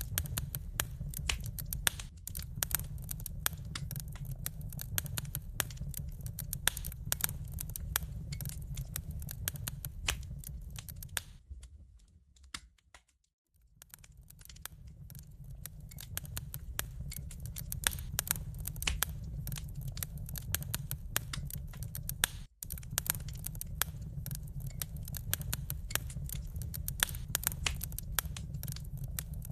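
Wood fire crackling, with dense sharp pops and snaps over a steady low rumble of the burning. The sound fades almost to silence for about two seconds near the middle, then builds back up, and cuts out for an instant later on.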